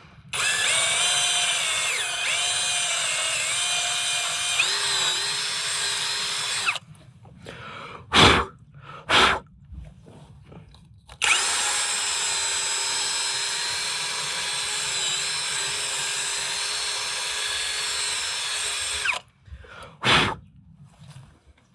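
Handheld electric drill running in two long runs of several seconds each, its motor whine shifting a little in pitch, with a few short trigger bursts between them and near the end.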